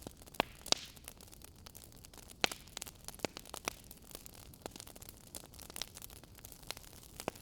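Wood fire crackling in a fireplace: irregular sharp pops and snaps over a faint steady hiss, with the loudest pops in the first second and again about two and a half seconds in.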